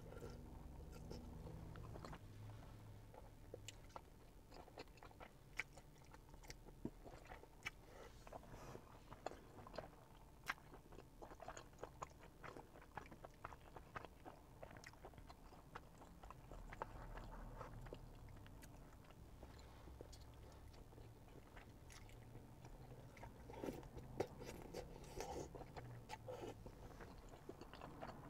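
Quiet close-up chewing and mouth smacks of a person eating chewy Korean rice cakes (tteokbokki) in spicy sauce, with short sharp clicks scattered throughout.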